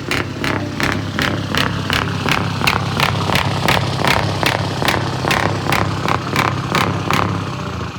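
Large truck diesel engine running steadily with a low rumble, overlaid by sharp, regular clicks about three a second that die away near the end.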